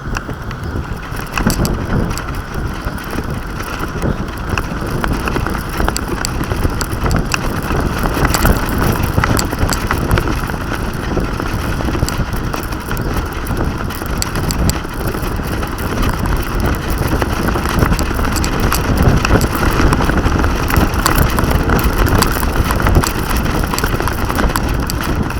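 Wind buffeting the microphone of a small action camera riding on a flying kite: a loud, steady, rumbling rush with constant fluttering gusts.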